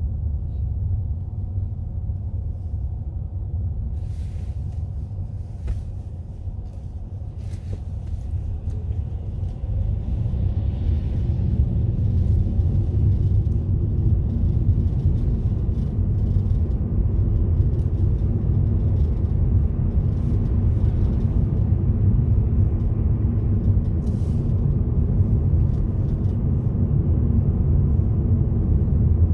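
Car on the move: a steady low engine and road rumble that grows louder about ten seconds in, with a few faint clicks in the first quarter and once near the end.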